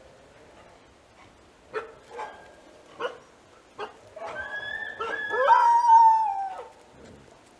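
Dingo calling: four short sharp barks or yips in the first four seconds, then a wavering howl of about two and a half seconds that drops in pitch at its end.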